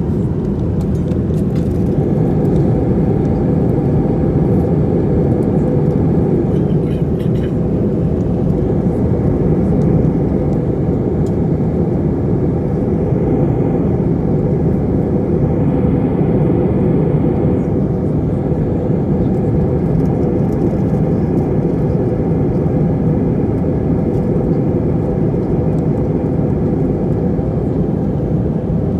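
Airliner cabin noise in flight: a steady, loud roar of the jet engines and airflow over the fuselage, heavy in the low end, with a few faint ticks.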